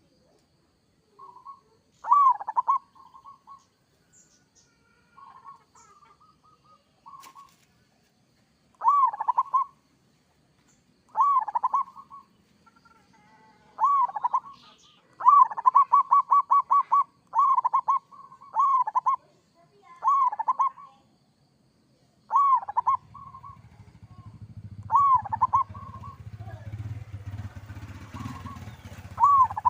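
Zebra dove (perkutut) singing: a string of short cooing phrases repeated every second or two, one of them a rapid run of about a dozen notes partway through. A low steady rumble comes in about three-quarters of the way through.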